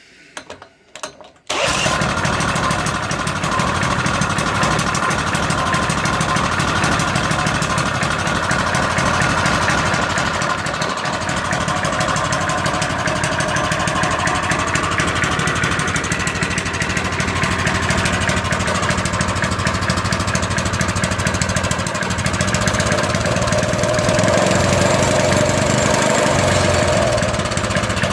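Norton Villiers A15 small engine starting after a few short clicks about a second and a half in, then running steadily.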